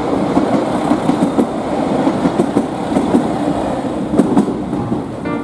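Train passing close by: a steady rumble of wheels on rails with irregular clacks, which cuts off abruptly near the end.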